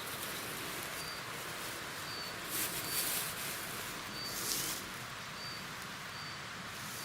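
A small bird repeating a short, high, thin call about once a second, over a steady outdoor hiss; twice there is a brief rustle.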